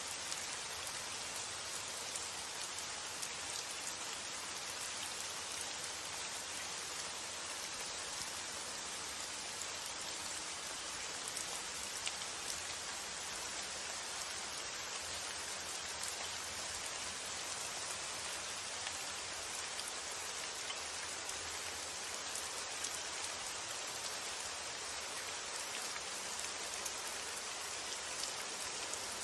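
Steady rain falling: an even hiss with many small, fine drop ticks scattered through it.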